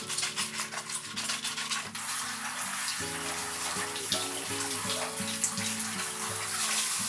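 Water running steadily from a tap, with background music under it; the water stops abruptly near the end.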